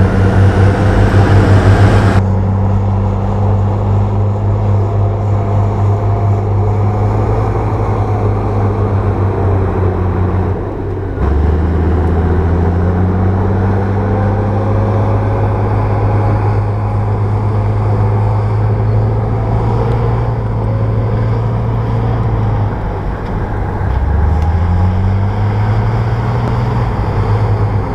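Bulldozer diesel engine running steadily under load. Its pitch sags and climbs back twice, about a third of the way in and again near the end. A harsher, brighter noise in the first two seconds cuts off suddenly.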